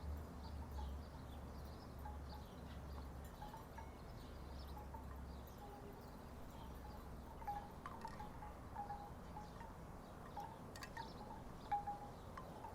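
Wooden tiki wind chimes knocking irregularly in the breeze. Wind rumbles on the microphone through the first half.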